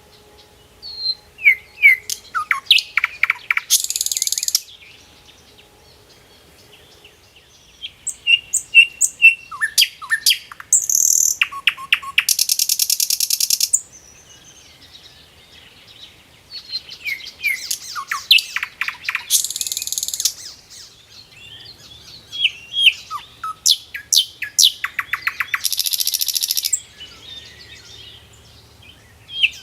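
A bird singing in four bouts of quick, high chirps and falling notes. Each bout ends in a rapid, buzzy trill, and there are pauses of a couple of seconds between bouts.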